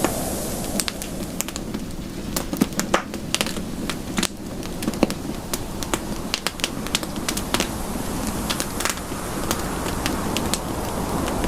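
Campfire crackling: a steady low rush of flames with frequent sharp, irregular pops and snaps from the burning wood.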